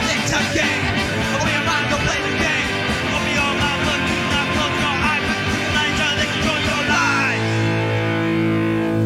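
Punk rock band recording with electric guitars and drums playing, ending about seven seconds in on a held final chord that rings out.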